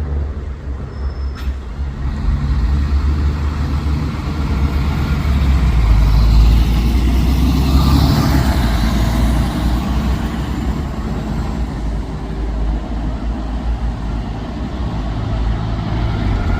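A large road vehicle, most likely a bus, running with a heavy low engine rumble that grows louder to a peak about halfway through and then eases off, with a short hiss near the middle.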